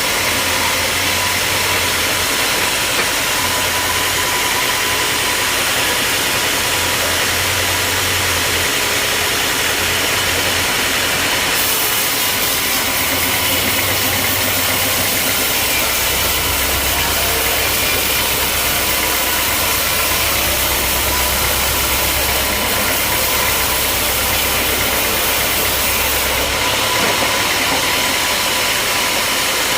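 Sawmill machinery running steadily with a low hum. About twelve seconds in a brighter, harsher hiss comes in, and it eases off again about a quarter-minute later.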